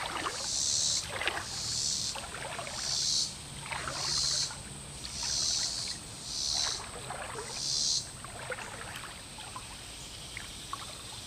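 Water sloshing and splashing in a steady rhythm, about eight splashes roughly three-quarters of a second apart, stopping about eight seconds in.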